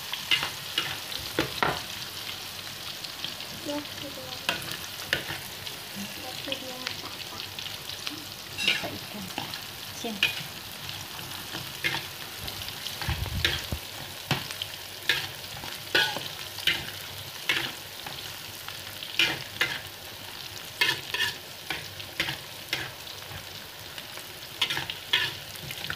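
Sliced shallots and garlic sizzling in hot oil in a wok, with a metal spatula scraping and clinking against the pan as they are stirred. The sautéing runs until they turn fragrant. The spatula strokes come more often in the second half.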